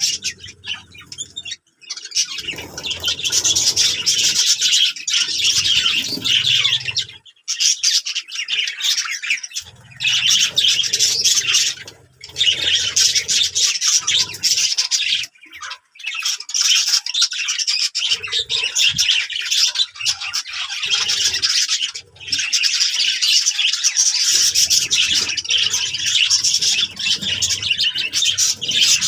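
A flock of budgerigars chattering and squawking continuously, a dense mass of overlapping high calls that breaks off for a moment several times. A low rumble comes and goes beneath it.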